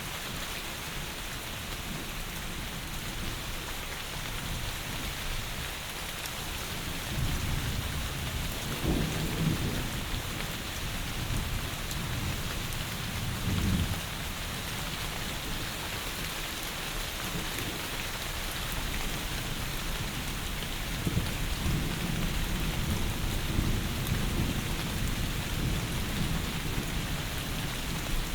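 Heavy rain falling steadily, a dense even hiss. Low thunder rumbles in about seven seconds in, rolls on for several seconds, and comes back again past twenty seconds.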